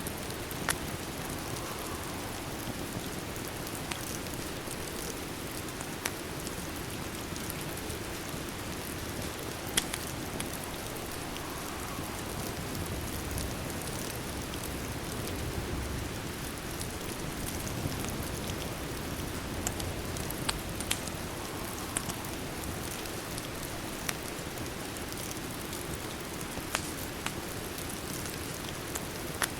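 Steady rain with a scattering of sharp crackles and pops from a wood fire every few seconds.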